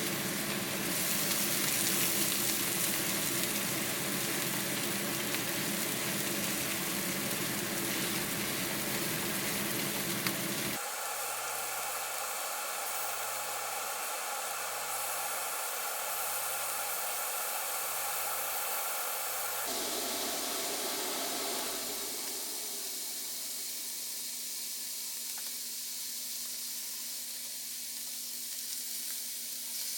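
Meat sizzling on a Korean barbecue grill, a steady hiss that changes abruptly twice, about a third and two-thirds of the way through.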